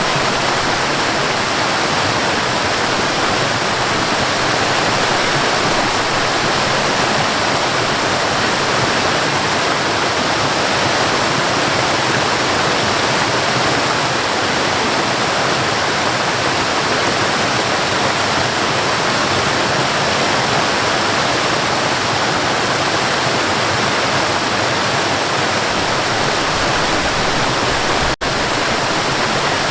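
Waterfall rushing steadily, an even hiss of falling water, which cuts out for an instant near the end.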